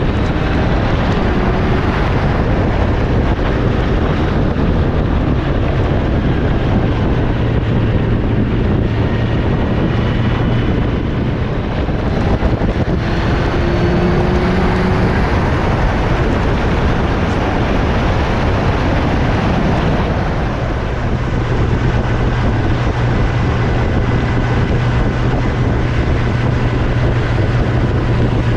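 Wind rushing over the microphone of a moving Kawasaki Z1000SX, with the bike's inline-four engine running steadily underneath at road speed. The engine note fades for several seconds midway and then comes back.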